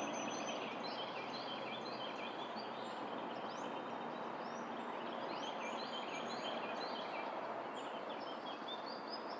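Steady outdoor background noise with many small birds chirping and calling throughout, in short high notes and quick upward sweeps.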